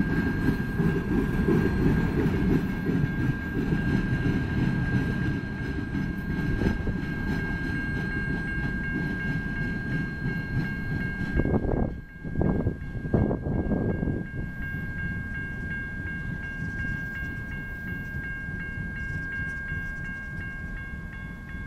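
Freight train cars rolling past, a heavy low rumble of steel wheels on rail that drops off after about twelve seconds as the last car clears and then fades. A steady high ringing tone from the grade-crossing warning bell runs throughout.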